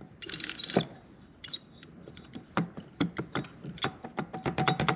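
Metal parts of a Ryobi table saw's small motor and gear housing clicking and knocking as they are handled, then, from a little past four seconds in, a fast even rattle of clicks, about ten a second, as a loose part with a lot of play is worked back and forth.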